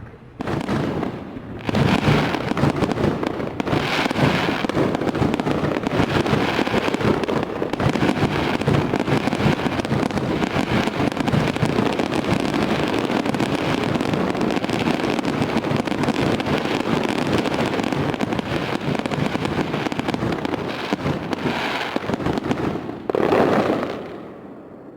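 Fireworks display: a dense, continuous barrage of bangs and crackling that starts abruptly, with heavier blasts about two, four and twenty-three seconds in, dying away near the end.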